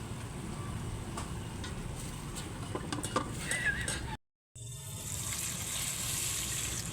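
Food frying and sizzling in a pan while it is stirred, with a few utensil clicks against the pan in the first half. The sound cuts out briefly a little past four seconds, then the sizzle resumes with a brighter hiss.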